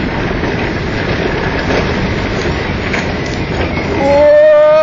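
Roller coaster train running along its track with a steady rumble. About four seconds in, a loud held high tone cuts in for about a second.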